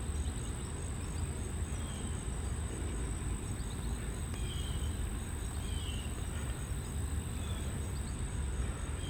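Steady outdoor ambience: a low rumble and a constant high insect drone, with a few faint short bird chirps scattered through it.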